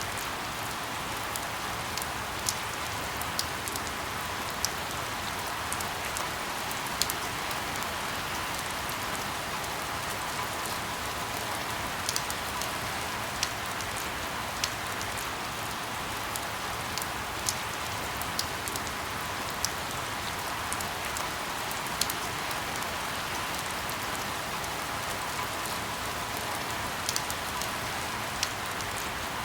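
Steady rain falling on a surface, an even hiss with frequent sharp individual drop ticks scattered throughout.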